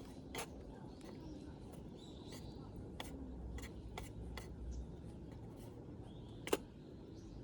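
A handful of short, sharp clicks and taps, spaced irregularly, the loudest about six and a half seconds in, over a low steady rumble.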